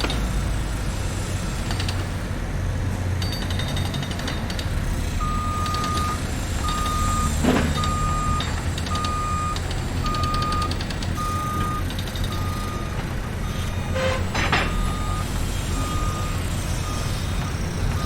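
Heavy truck's engine running with a low rumble while its reversing alarm starts beeping about five seconds in, one steady-pitched beep roughly every second, growing fainter near the end. A couple of short metallic knocks sound over it.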